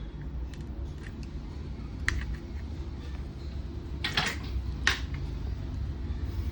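A few light clicks and two short scraping clatters of hand tools being handled at a workbench, over a steady low background rumble.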